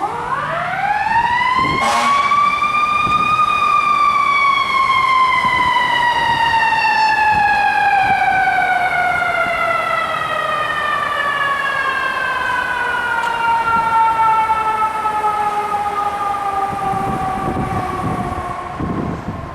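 Fire engine's mechanical siren winding up to a high pitch over about three seconds, then slowly winding down, its pitch falling steadily as it coasts. A short sharp click comes about two seconds in, and a low engine rumble shows near the end.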